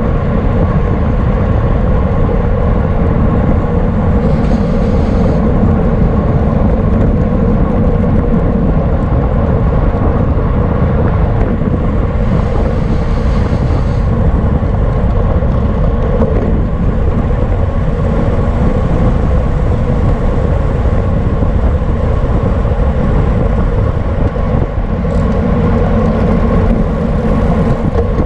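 Steady, loud wind rush and road rumble on a bicycle-mounted camera microphone during a race, with brief hissy swells a few times.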